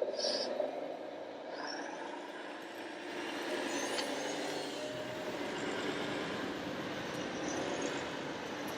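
Radio-controlled model construction machines running: small electric motors and gearing whirring and whining, with a short high burst at the start and a brief rising whine about a second and a half in.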